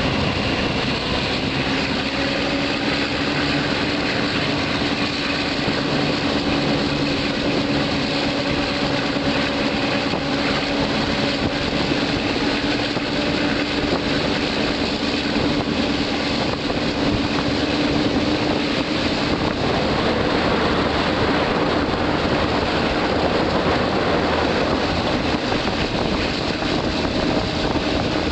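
Diesel-hauled passenger train, Thai ordinary train No. 255, running on the track: a steady, loud rumble of wheels on rail with a steady engine drone.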